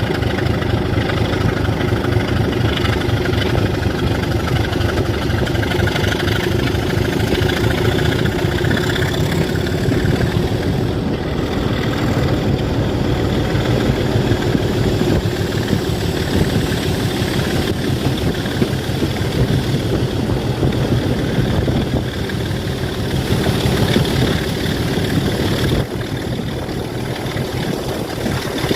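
Class 27 diesel locomotive's Sulzer six-cylinder engine running steadily, with a slight drop in level near the end.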